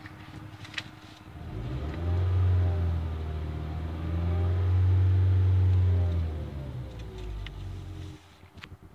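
2007 Toyota Yaris's 1.5-litre four-cylinder engine revved from idle: the revs climb about a second and a half in, are held up for about four seconds with a slight dip midway, then fall back to a quiet idle.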